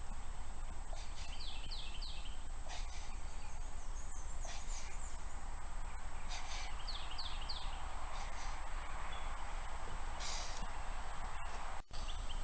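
Small birds chirping in quick runs of two or three notes, several times, over a steady low hum and hiss, with short rushes of noise coming and going; the sound drops out for a moment near the end.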